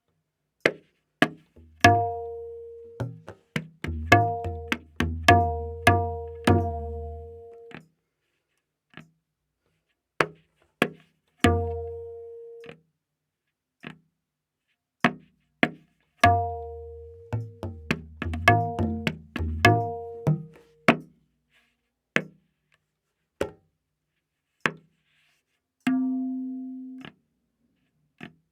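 Tabla playing a slow vilambit ektaal theka, the dayan tuned to A#. Clusters of ringing dayan strokes over deep, resonant bayan bass strokes come twice, with sparse dry strokes and short pauses between them.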